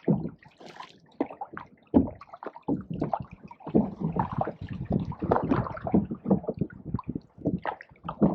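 Canoe paddle strokes in a weedy pond: irregular splashes and gurgling water around the paddle and hull.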